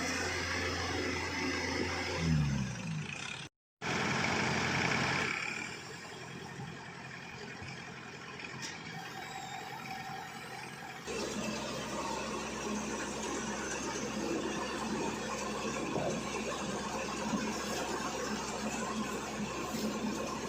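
Engine of a rice-harvesting machine running. Its pitch drops about two seconds in as it slows, the sound cuts out briefly, and steady running noise continues after that.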